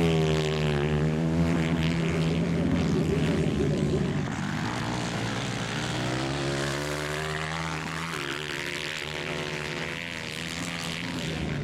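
Engines of 160cc race motorcycles running on a dirt track: one bike is loud and close at first and then fades, and another engine rises in pitch about halfway through as it accelerates.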